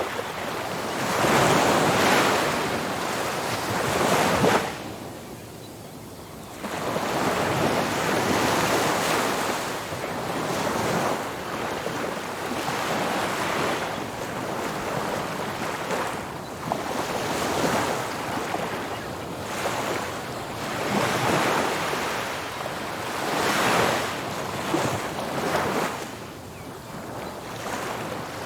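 Ocean surf breaking on a beach, waves rushing in and washing back in swells every few seconds, with a brief lull before a new wave builds about six seconds in. Wind on the microphone adds to the noise.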